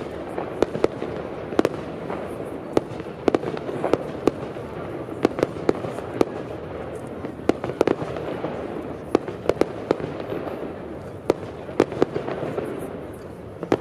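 Display fireworks going off: a long run of irregular sharp bangs, some in quick pairs or clusters.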